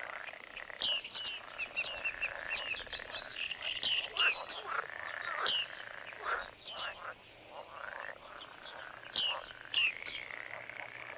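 Many birds calling together: a continuous run of quick, sharp, downward-sweeping chirps over lower, longer warbling calls.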